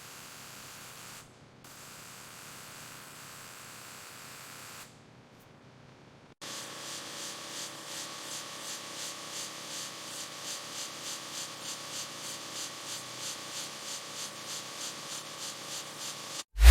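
Steady hiss, then after a short pause rhythmic rubbing like sanding on a car body, about two strokes a second, which stops suddenly near the end.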